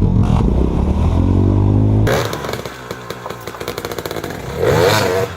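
Off-road vehicle engine revving hard, its pitch rising, then an abrupt cut about two seconds in to a quieter engine with rattling clatter and a short rev near the end.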